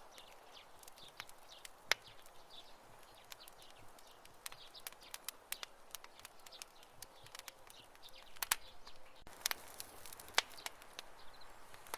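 Campfire of burning wood crackling: irregular sharp pops and snaps over a soft steady hiss, with a few louder pops, the loudest about ten seconds in.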